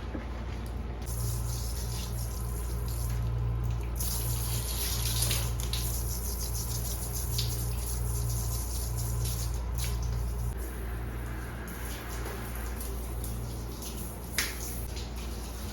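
Tap water running into a sink, with a few short knocks from things being handled, the sharpest near the end.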